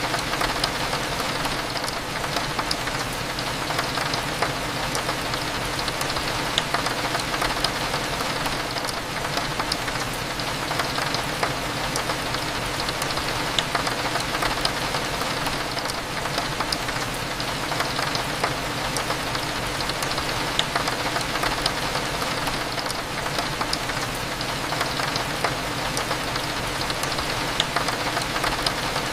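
Steady rain with a dense patter of drops hitting a window, over a low, constant hum.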